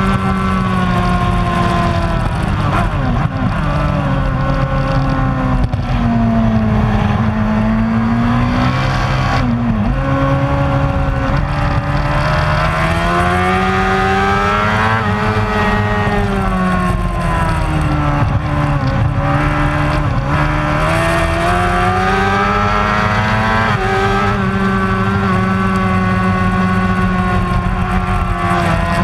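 Superbike racing motorcycle engine running hard, its pitch rising and falling repeatedly as it revs up and drops back.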